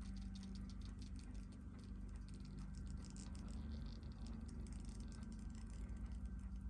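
Faint small clicks and taps of watch parts and small tools being handled on a workbench, thickest over the first four seconds or so, over a steady low hum.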